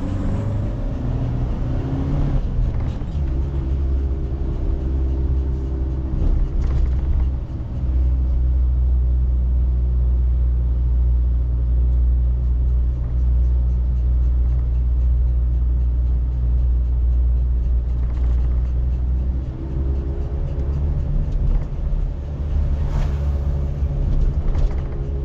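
Car interior while driving: a steady low engine and road rumble, with an engine hum that comes in for a few seconds early on and again near the end.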